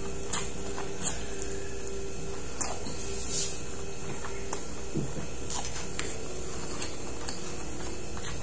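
Wet chewing and lip-smacking clicks of a person eating cooked octopus and rice, one short smack every second or so, the sharpest about a second in. A steady hum runs underneath.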